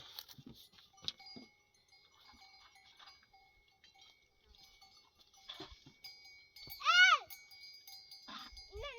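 A young farm animal bleating: one short, high call that rises and falls in pitch about seven seconds in, with a second call starting near the end. Faint steady high tones sound behind it.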